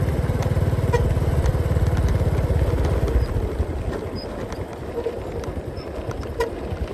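Motorcycle engine running on the move, a fast low exhaust pulsing with road and wind noise. The engine note drops and gets quieter about halfway through.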